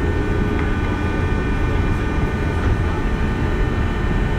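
Running sound inside a JR West 201 series electric train car under way: a steady rumble of wheels on rail with several steady high tones from the train's running gear.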